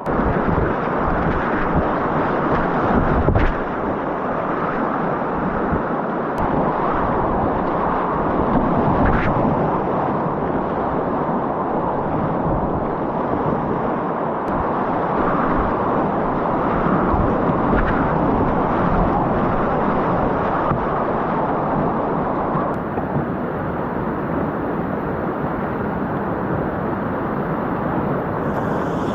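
Rushing river whitewater, loud and steady, with wind noise on the microphone and a couple of short knocks.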